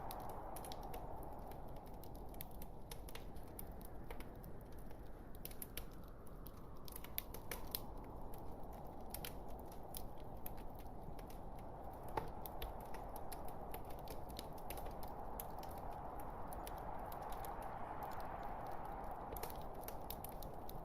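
Wood fire burning in a fireplace: a steady soft rushing of the flames with irregular sharp crackles and pops from the burning logs throughout.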